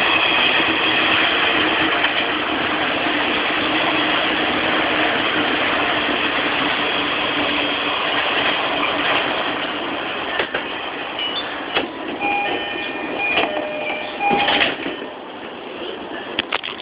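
Steady, loud train noise heard from inside a JR East E233-3000 commuter train car standing at a station platform. It eases off after about ten seconds, and a few sharp clicks and short beeping tones come in the last few seconds.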